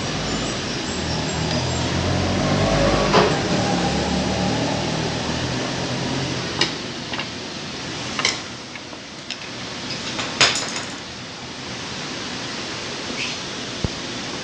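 Small metal sewing-machine parts clicking and clinking, a few separate sharp knocks with a quick cluster about two-thirds through, as the piping folder and its plate are fitted onto the machine. A low steady hum runs under the first half and then fades.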